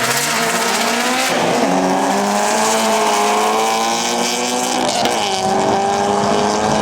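A performance car's engine at high revs, climbing in pitch at first and then held high, with a brief dip in the revs about a second in and again about five seconds in. A hiss of tyre screech runs under it.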